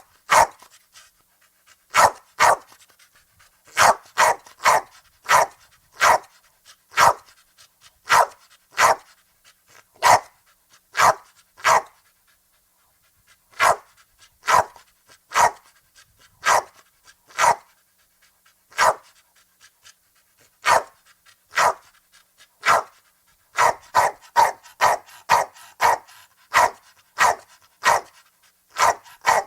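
A Pomeranian barking over and over in short, high, sharp yaps, some single and some in quick pairs, with a brief pause about halfway through.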